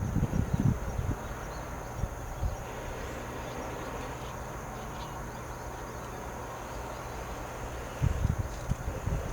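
Steady high-pitched drone of insects. Low rumbling bumps come in the first second and again near the end.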